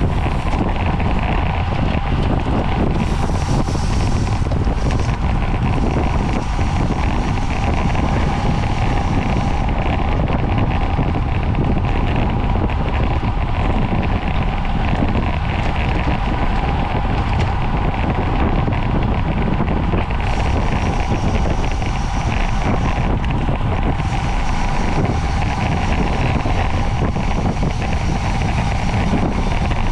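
Steady wind rushing over the microphone of a camera riding along on a bicycle at race speed, with road noise underneath.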